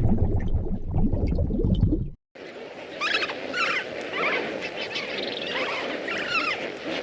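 A low rushing, bubbling noise that cuts off about two seconds in, followed by a series of high, quavering animal calls over a steady background noise.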